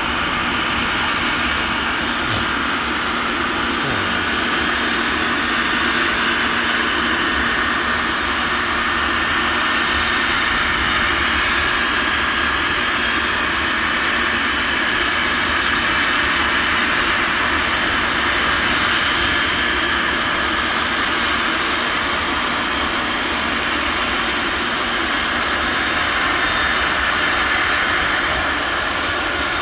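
Boeing 747-251B freighter's jet engines running steadily: an even rush of noise with faint steady tones through it, unchanging throughout.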